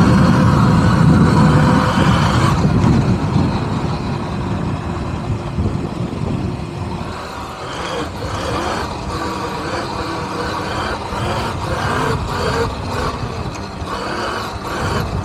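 Wind and road noise on a rider-worn camera while riding an electric dirt bike. It is loudest and most rumbling for the first two and a half seconds, then eases into a rougher, lighter rush.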